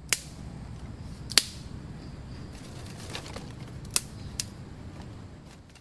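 A lighter being clicked to light a fire: four sharp clicks, irregularly spaced, over a low background rumble.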